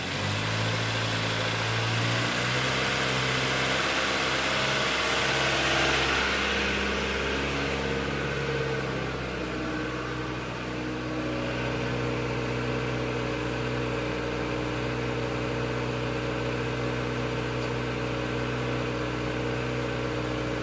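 Ford Focus 1.6 HWDA four-cylinder petrol engine running in the car. It is held above idle for the first several seconds, then drops back to a steady idle about ten seconds in.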